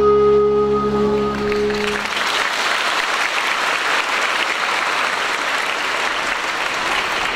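A choir's final held chord rings out and stops about two seconds in, then the audience applauds.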